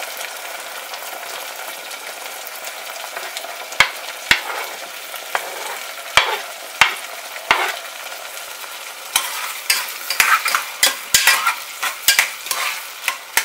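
Chopped tomatoes sizzling as they go into hot sesame oil with frying garlic in an aluminium pressure-cooker pan. A few sharp knocks come from about four seconds in, and near the end a metal spoon stirs and scrapes against the pan in quick clicks.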